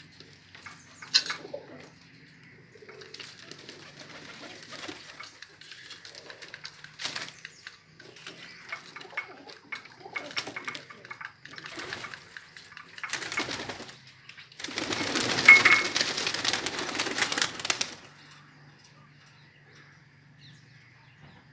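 Pigeons at a feeding spot: scattered wing flaps and scuffling, then a loud burst of wing flapping lasting about three seconds, starting about fifteen seconds in.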